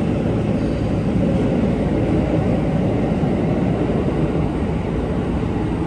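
Running noise of a commuter train carriage heard from inside: a steady, loud low rumble with no breaks.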